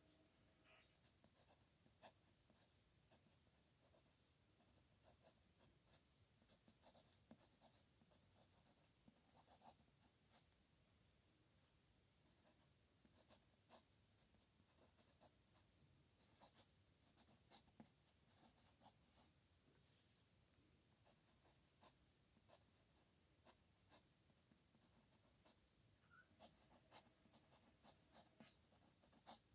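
Faint pen-on-paper writing: short scratching strokes and light taps of the pen, coming irregularly.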